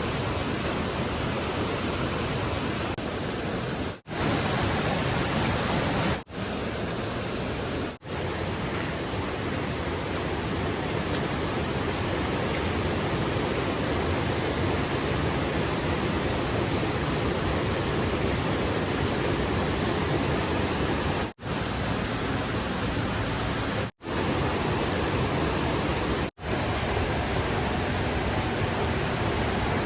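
Steady rush of flowing stream water, broken by six brief dropouts.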